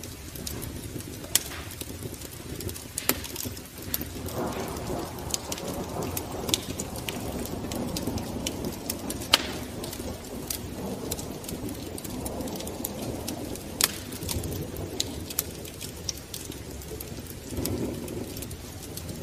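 Fire crackling, with irregular sharp pops over a steady low rush.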